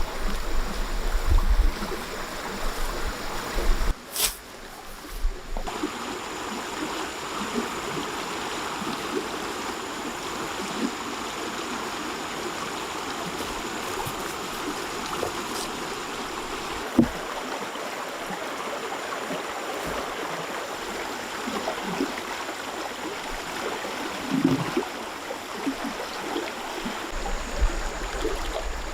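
Steady rush of flowing stream water, with a sharp click about four seconds in and a few light knocks and a low thump later on.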